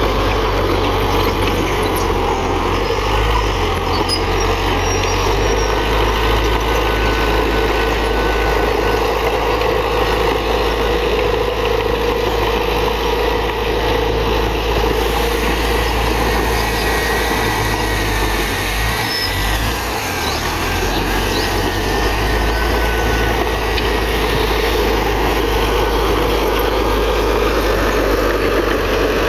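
Komatsu D31PX bulldozer's diesel engine running steadily under load, dipping briefly about two-thirds of the way through.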